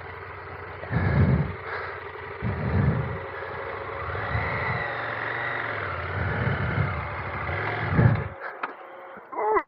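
Adventure motorcycle engine running, with several short surges in revs, then dropping away sharply near the end.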